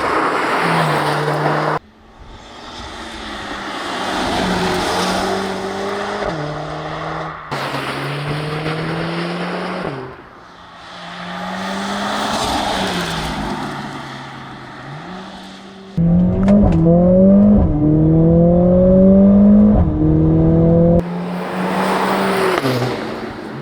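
Supercar engine and exhaust across several edited shots. The engine note rises and drops with gear changes, and the car swells and fades as it passes by several times. About sixteen seconds in comes a louder stretch of hard acceleration, the pitch climbing through quick upshifts.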